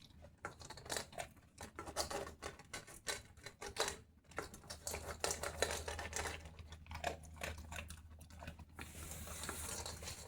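A dog crunching dry kibble: irregular crisp clicks and crunches. About a second and a half before the end, a steady hiss joins in.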